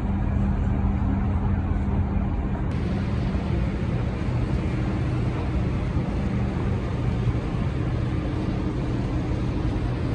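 Tour boat's engine running steadily under way: a low, even drone over a wash of noise.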